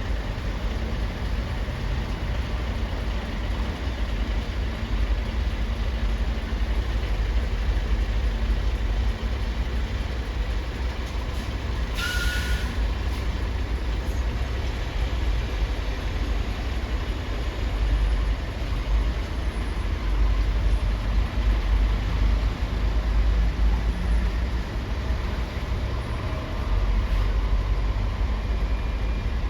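Heavy trucks rumbling at low pitch, with one short hiss of an air brake about twelve seconds in.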